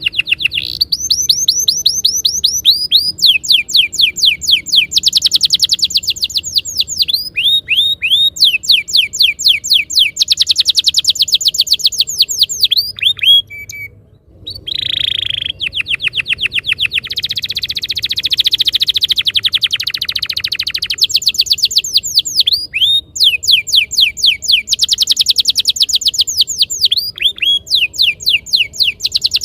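Domestic canary singing long, rapid trills of repeated falling notes, one roll running straight into the next, with a brief break about halfway through.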